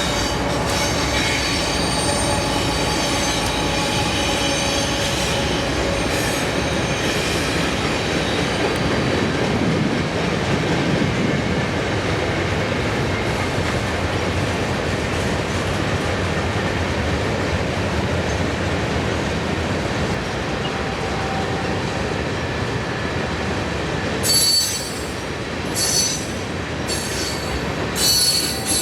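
Freight train cars rolling past with a steady rumble of wheels on rail. Wheel flanges squeal in high, ringing tones during the first several seconds, then in repeated short squeals about once a second near the end.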